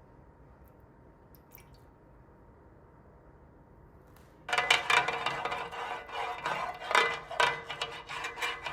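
A utensil stirring liquid sauce in a pot, with irregular clinks and scrapes against the pot and the sauce sloshing. It starts suddenly about four and a half seconds in, after a near-quiet stretch.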